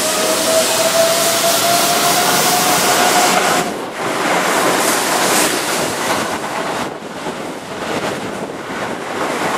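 Keihan 8000 series electric train running past close by as it comes into a station: a steady rush of wheel and running noise, with a thin whine in the first few seconds that rises slightly in pitch.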